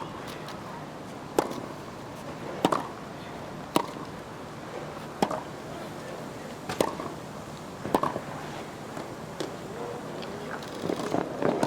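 Tennis rally: a ball struck back and forth with racquets, six sharp hits about one to one and a half seconds apart. Applause rises near the end as the point is won.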